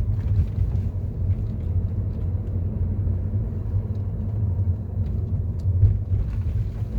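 Steady low road and running-gear rumble inside the cabin of a moving 2015 Mercedes-Benz E-class (W212), with only a few faint ticks. No front suspension rattle is heard, a sign that the new tension strut has cured the clunk.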